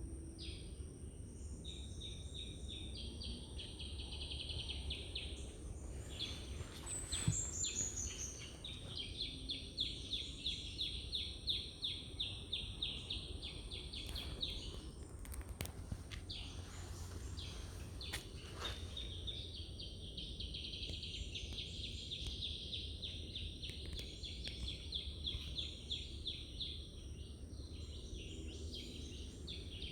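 Outdoor natural ambience: long runs of fast, high trilling, each lasting several seconds, over a steady low rumble, with a short falling whistle about seven seconds in.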